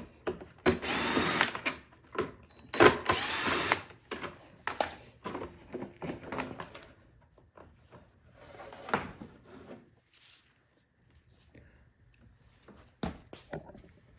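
Cordless power driver run in two short bursts, about a second each, removing fasteners from the mower's engine covers. It is followed by scattered clicks and knocks of parts being handled.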